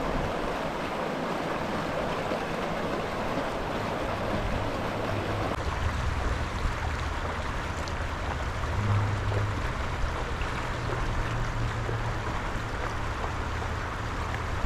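Steady rushing of running water, with a low rumble added from about four seconds in; it cuts off abruptly at the end.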